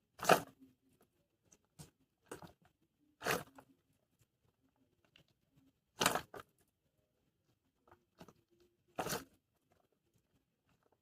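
Short crinkling, tearing rustles of plastic packaging being handled, about half a dozen separate bursts a second or more apart.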